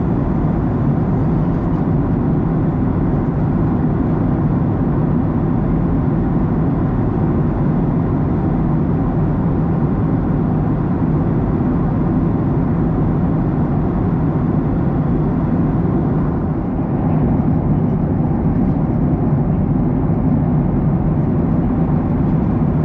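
Steady cabin noise of a Boeing 737-900ER in cruise: the rush of airflow and the drone of its CFM56-7B engines, heavy in the low end, with a slight dip about 16 seconds in.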